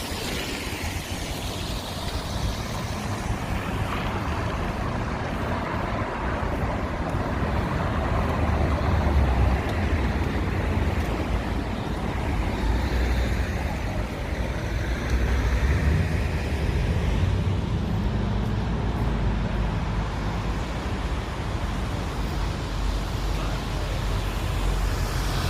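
City street traffic: a steady mix of passing cars and buses with a low rumble.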